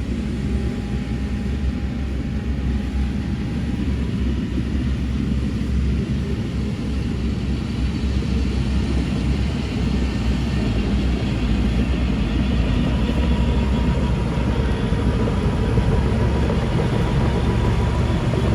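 Heavy earthmoving machinery's diesel engine running steadily with a low rumble, getting a little louder after about halfway.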